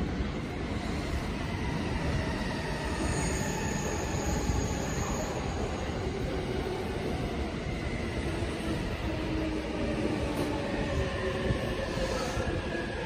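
Blue-striped commuter electric train moving along a far station track: a steady running rumble with faint thin tones over it.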